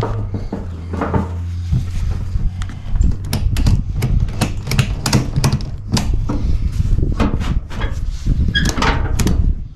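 A run of sharp clicks and knocks, roughly two a second, beginning about three seconds in, over a steady low hum.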